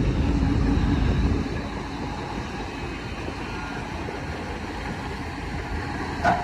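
Heavy diesel earthmoving machinery running, louder for about the first second and a half and then easing to a lower steady level, with one short sharp knock near the end.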